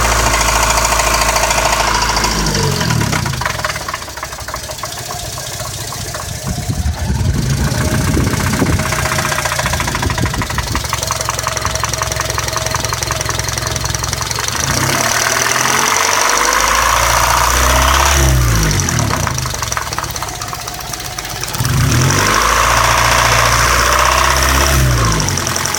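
1998 Honda Civic LX's 1.6-litre four-cylinder engine running with a ticking noise of unknown cause, its speed rising and falling several times.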